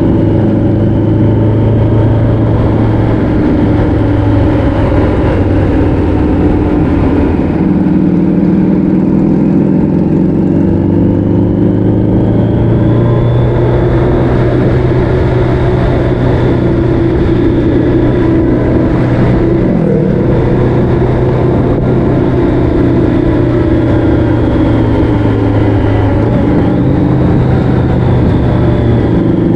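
A vehicle engine running under way on a winding road, its note shifting up and down in pitch several times as it speeds up and slows, over steady wind and road noise.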